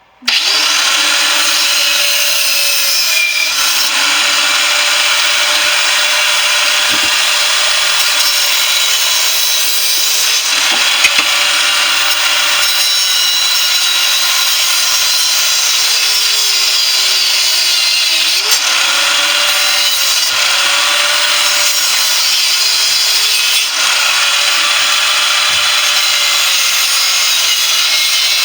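A power tool cutting into the casing of a central air conditioner compressor, running steadily, its motor pitch sagging under load several times and picking back up.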